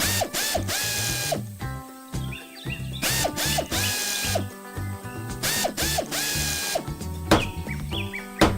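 Background music with a mechanical sound effect laid over it: three hissing bursts, each a little over a second long, and a few sharp clicks in the second half.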